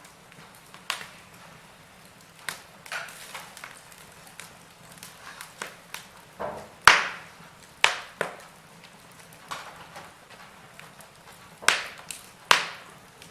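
Wood fire crackling in a fireplace: irregular sharp pops and snaps over a faint hiss, the loudest pop about seven seconds in.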